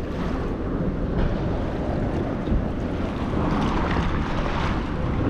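Steady wind buffeting the microphone, a low rumbling rush without breaks.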